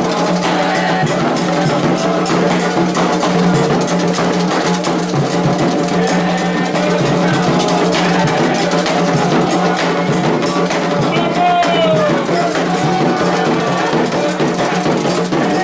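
Candomblé ritual music: hand drums (atabaques) struck continuously, with voices over them.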